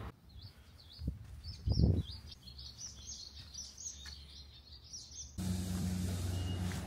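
Small birds chirping in quick high-pitched calls, with two low thumps about one and two seconds in. About five seconds in the chirping stops abruptly and a steady low hum takes over.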